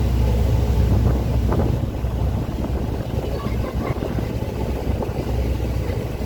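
A boat's engine runs steadily with a low rumble while strong wind buffets the microphone.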